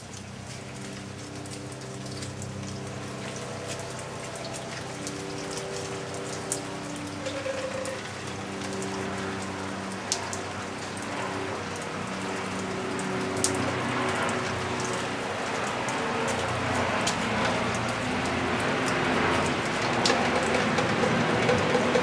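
Rain falling and pattering on surfaces, with scattered sharp drop ticks, growing steadily louder. A low steady hum sits under it in the first half.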